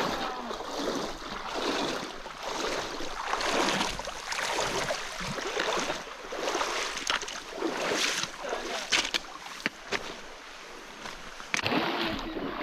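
Water sloshing and splashing around legs wading through a river, swelling with each stride about once a second, with a few sharp knocks.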